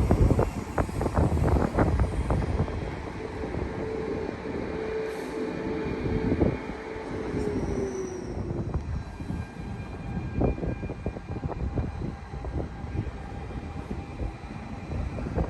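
Brisbane suburban electric train running along the track, heard from inside the carriage: a rumble with bursts of sharp knocks from the wheels over rail joints, strongest in the first couple of seconds and again about ten seconds in. A steady whine sets in about three seconds in, sags slightly in pitch and stops after about eight and a half seconds.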